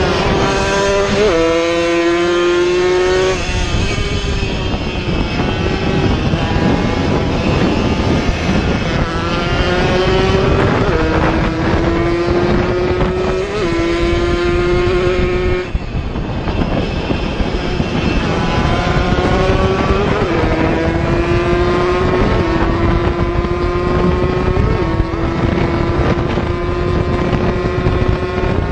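Racing two-stroke motorcycle engines at high revs, the pitch climbing through each gear and dropping back at every upshift, over and over.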